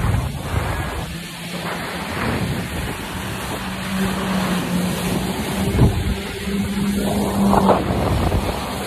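Jet ski engine running at a steady pitch under a dense rush of water spray, with a sharp thump about six seconds in.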